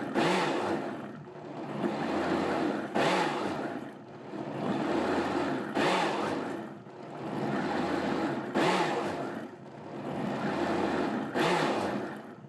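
Countertop blender running, puréeing green sauce with onion, cilantro and garlic. Its sound swells and dips in a regular cycle about every three seconds, and the motor stops near the end.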